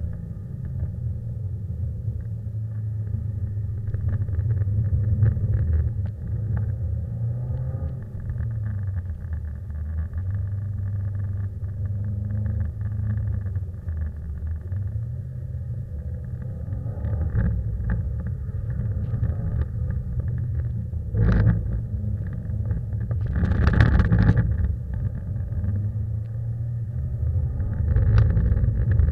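Subaru Impreza's flat-four engine heard from inside the cabin, its revs rising and falling over and over as the car is driven sideways through corners on a wet track. A few brief louder rushing surges come about three-quarters of the way through and again near the end.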